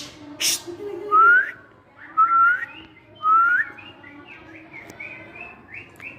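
A short hiss, then a bird calling: three loud rising whistled notes about a second apart, followed by a quick run of short high chirps.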